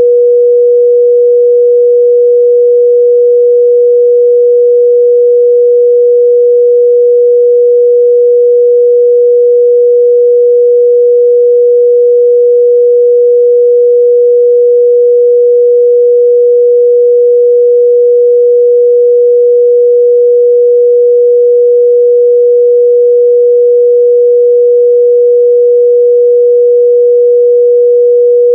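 Pure 484 Hz sine-wave test tone, held at one steady pitch and level throughout.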